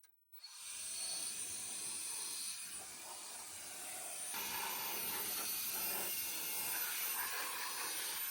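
Cordless electric air duster blowing on a low setting, a steady airy hiss that starts about half a second in.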